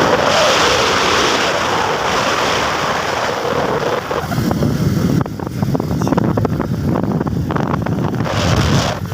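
Wind rushing over the microphone, mixed with road noise from a moving vehicle. About four seconds in, the rush eases and a rougher low rumble with crackling buffets takes over.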